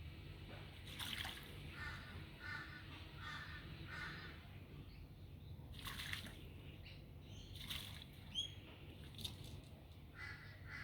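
A butcherbird bathing, its wings splashing in shallow water in a few short bursts, about three in all. Between the first two splashes a bird call sounds four times, evenly spaced, and a couple of short higher chirps follow near the end.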